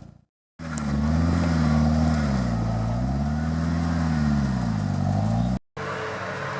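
Off-road competition vehicle's engine revving, its pitch rising and falling twice over a few seconds. It cuts off abruptly near the end and gives way to a steadier engine hum with a faint, steady whine.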